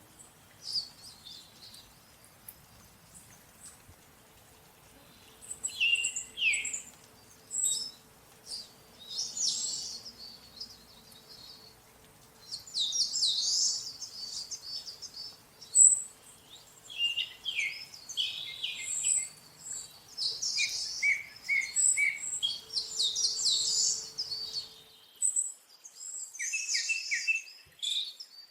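Songbirds chirping and twittering in clusters of quick, high calls, mostly quiet for the first few seconds.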